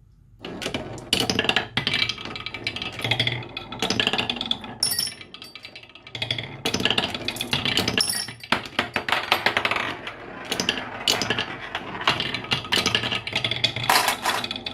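Marbles rolling and clattering down wooden marble-run tracks: a dense run of clicks and knocks, with short lulls about six and eight and a half seconds in and a few brief high ringing notes.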